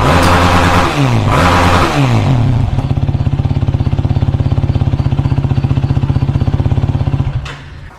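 Yamaha YFZ450R single-cylinder four-stroke engine through its stock exhaust, blipped up and back down a couple of times, then settling to a steady, evenly pulsing idle. The sound stops abruptly near the end.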